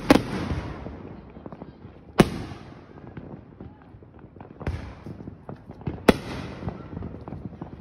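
Aerial firework shells bursting overhead: four sharp bangs a second or two apart, the first at the very start and the last about six seconds in, with scattered crackling between them.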